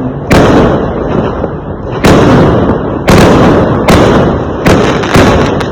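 Fireworks exploding: a string of sharp, loud bangs, about seven in all, each trailing off in a rumbling echo, coming closer together toward the end.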